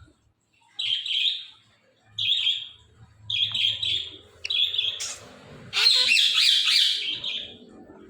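Indian ringneck parakeet calling in four short, high chirping bursts about a second apart, then a longer, louder run of rapid harsh squawks near the end.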